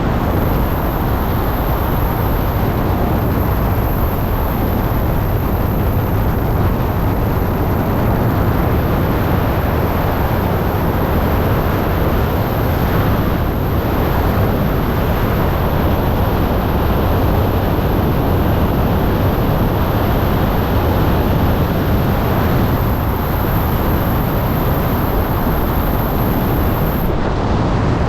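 Steady loud roar of wind rushing over a helmet-mounted camera's microphone during wingsuit freefall.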